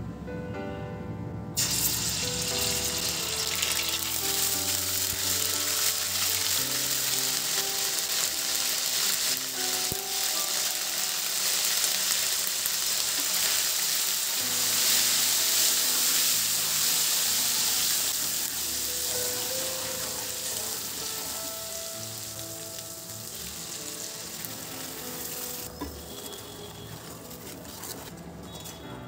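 Spice paste hitting hot oil in an aluminium pot and sizzling hard while a wooden spatula stirs it. The sizzle starts suddenly a couple of seconds in and dies down gradually near the end as the paste fries on a low flame.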